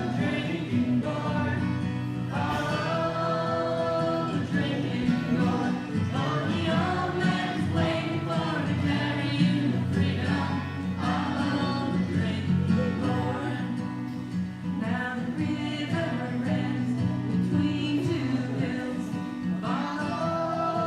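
A gospel-style song: a group of voices singing over sustained instrumental accompaniment.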